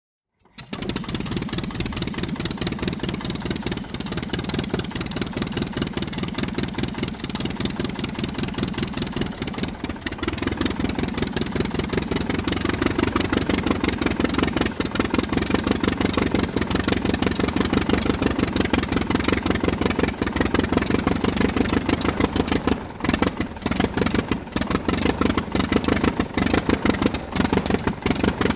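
Aircraft engine running with a fast, even pulsing. It comes in about half a second in and lifts slightly in pitch and level about ten seconds in.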